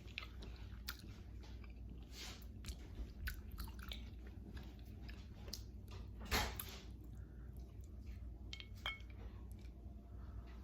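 A person chewing close to the microphone, eating fufu with egusi soup, with scattered wet mouth clicks and smacks. A louder short noise comes about six seconds in.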